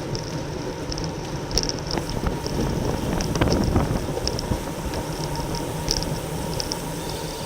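Wind and road noise from a racing bicycle moving at speed, a steady rush swelling briefly about halfway through, with short high ticks here and there.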